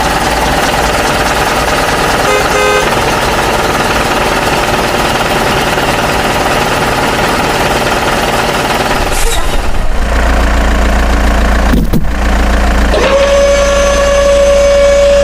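Small motor running with a steady mechanical whir; after a brief break near the end, a strong steady tone joins it and holds.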